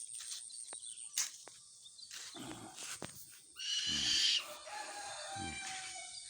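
An owl calling three times: harsh, hissing screeches, each with a low tone falling in pitch, the middle one the loudest.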